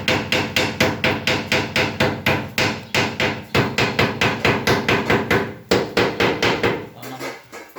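A hammer striking rapidly and steadily, about four blows a second, with a brief break about three and a half seconds in; the blows turn softer and sparser near the end.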